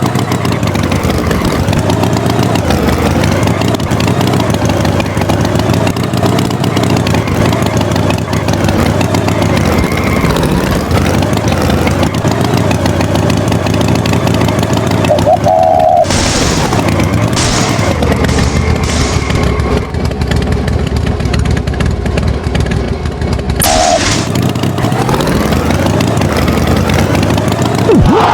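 Engine running continuously, its pitch rising and falling as it revs up and down, with two short high tones cutting in partway through.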